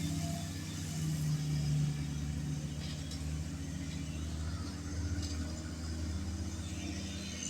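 Tractor engine running steadily under load, a low even rumble.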